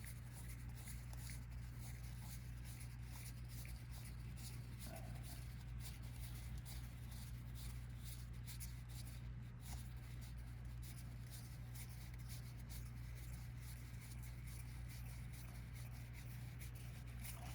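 Collectible trading cards being counted out one at a time, with faint repeated papery slides and light taps, over a steady low electrical hum.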